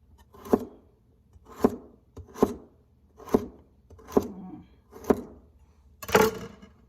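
Knife cutting a carrot into rounds on a cutting board: seven crisp cuts a little under a second apart, the last one near the end longer and noisier.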